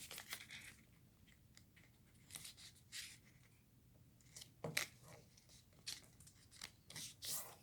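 Faint, scattered rustles and crinkles of a sheet of paper being folded and creased by hand.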